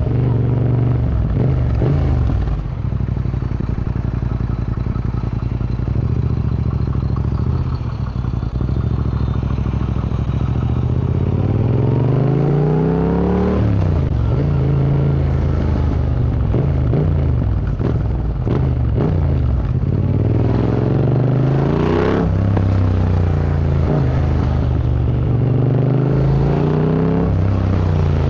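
Yamaha MT-07's parallel-twin engine through an Akrapovic Racing Line exhaust, ridden hard: the revs climb under acceleration and drop sharply at each gear change, about three times.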